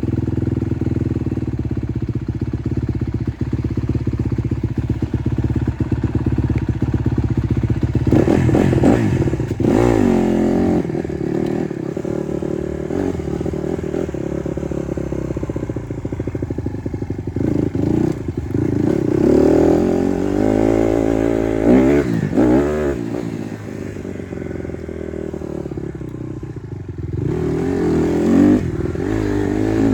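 Honda CRF150R dirt bike's four-stroke single-cylinder engine idling steadily, then from about eight seconds in revved and ridden, its pitch rising and falling again and again.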